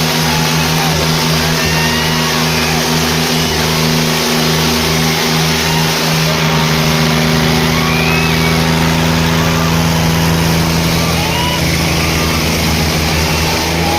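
Diesel tractor engines running hard and steady under heavy load, holding a nearly constant pitch, with voices in the background.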